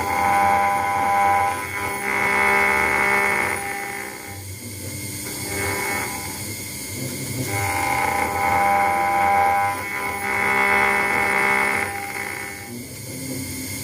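CNC engraving router's spindle with a 1 mm ball-nose cutter roughing out a brass plate: a high-pitched whine that swells and fades in passes of roughly two seconds, with quieter stretches between.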